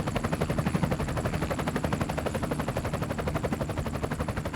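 Helicopter rotor blades chopping in a fast, even beat of about eight pulses a second, fading slightly near the end.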